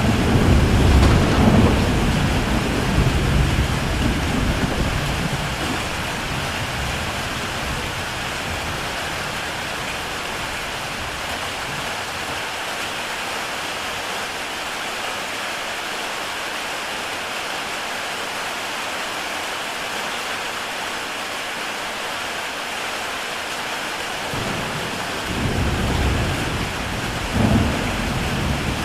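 Heavy rain falling steadily on a tile roof. A low rumble of thunder sets in at the start and fades over about five seconds, and a second rumble comes near the end.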